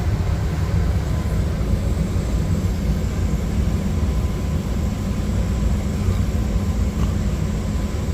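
R-410A air-conditioning system running steadily, a constant low hum from the compressor and fan. The system is running restricted, which the technician puts down to the evaporator coil, or possibly its strainer.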